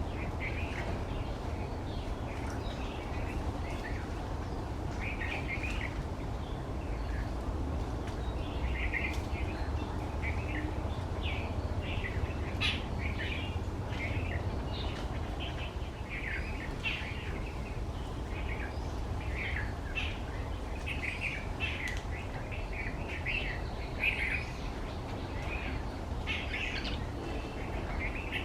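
Wild birds chirping in many short, high calls, some in quick runs, over a steady low background rumble.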